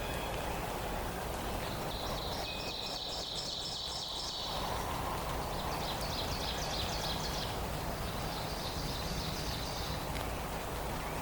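Songbirds singing three fast, high trills, starting about two, six and eight seconds in, over a steady hiss of forest background noise.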